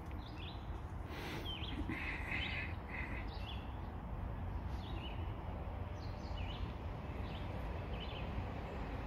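Wild birds chirping in short, scattered calls, with a couple of longer buzzy calls about two seconds in, over a steady low background rumble.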